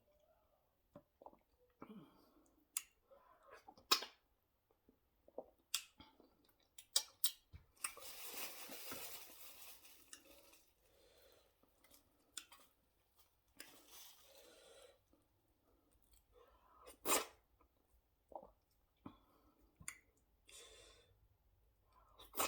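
Close-up mouth sounds of a person eating fufu with ogbono soup: scattered wet smacks and clicks of chewing, with a breathy rush of noise lasting about two seconds near the middle.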